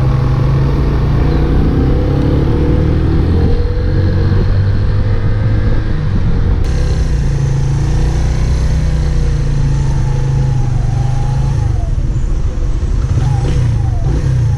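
Benelli VLX 150cc motorcycle under way, a steady loud low rumble of wind and engine on the microphone, with the engine note rising as it accelerates in the first few seconds.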